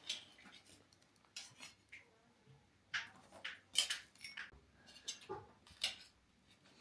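Cutlery clinking and scraping against dishes: a run of irregular short clinks, the loudest a little before the middle and again near the end.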